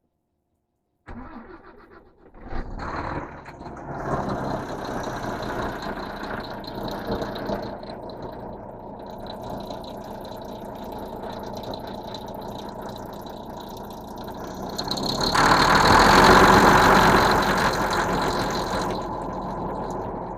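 Truck engine started about a second in, catching and settling into a steady idle, run to check a newly replaced belt roller for noise. It runs louder for a few seconds from about 15 s, then drops back to idle.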